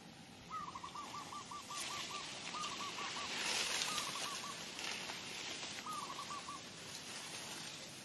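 A bird calling in quick runs of repeated notes, one run of about eight notes then three shorter groups, over a hiss of noise that swells in the middle.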